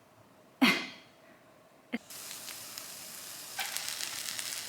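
A buttered grilled cheese sandwich sizzling in a frying pan, a steady hiss starting about two seconds in and growing a little louder near the end. A short sharp sound comes before it, under a second in.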